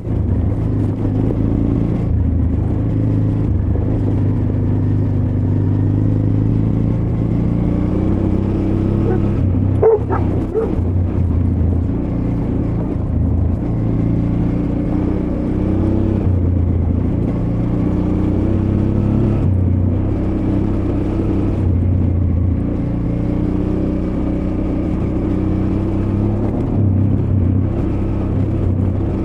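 Honda Transalp XL600V's 583 cc V-twin engine running at low to moderate revs on a rough trail, its pitch rising and falling gently with the throttle. A brief sharp sound cuts in about ten seconds in.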